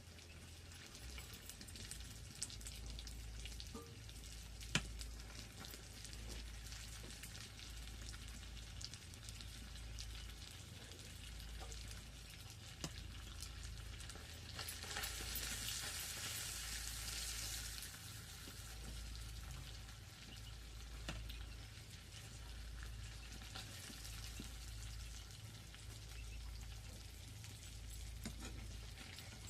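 Food frying in hot oil in a pan, a steady sizzle with scattered crackles and one sharp click about five seconds in. The sizzle swells louder for a few seconds around the middle, over a steady low hum.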